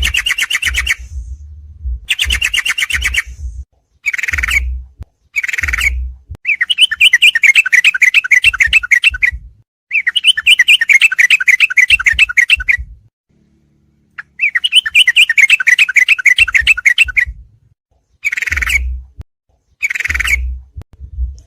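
Recorded song of trucuk (yellow-vented bulbuls), played back as a masteran training track for caged birds. It comes as repeated bursts of fast, bubbling chatter, some short and some two to three seconds long, with brief pauses between them.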